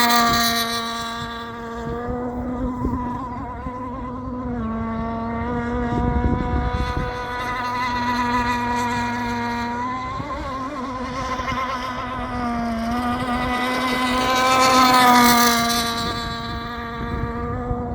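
Radio-controlled model racing boat's engine running at high revs, a steady high-pitched buzzing whine that dips slightly in pitch a couple of times and swells louder about fifteen seconds in as the boat comes close.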